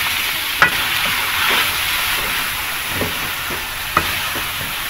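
Chicken, onion and carrot strips sizzling in hot oil in a steel wok, stirred with a plastic spoon that scrapes and knocks against the pan a few times.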